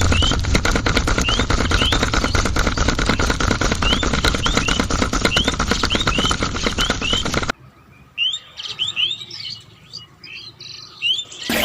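Small bird chirping, a short rising chirp repeated every half second or so. For the first seven and a half seconds it sits under a loud, dense rattling noise that cuts off suddenly, then returns near the end.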